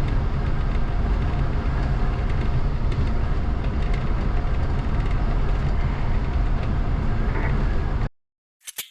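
Train running on rails: a steady, loud rumble with a few faint clicks, which cuts off abruptly about eight seconds in. A very short sound follows near the end.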